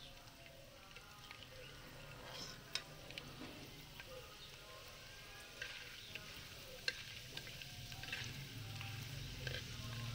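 Pieces of edible gum (gond katira) frying in hot ghee in an aluminium pan. The ghee sizzles steadily, with scattered sharp pops and clicks, while a slotted steel spoon stirs the pieces.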